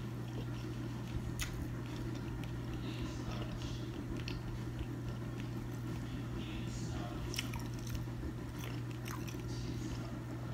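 Close-up chewing and mouth sounds of someone eating pan-seared salmon, with a few light clicks, over a steady low hum.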